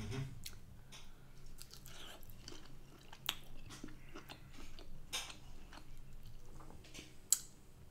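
A person chewing a bite of chipolata sausage, soft chewing with scattered small mouth clicks. There is a sharper click about seven seconds in.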